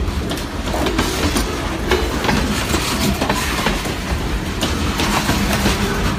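Freight train's boxcars rolling past close by: a steady rumble of wheels on rail, with irregular clicks as the wheels cross rail joints.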